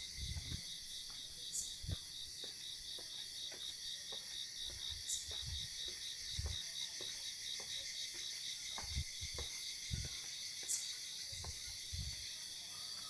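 Chorus of insects such as crickets: a steady high chirring in a quick, even pulse over a constant high hiss. Scattered soft low knocks and bumps are heard throughout.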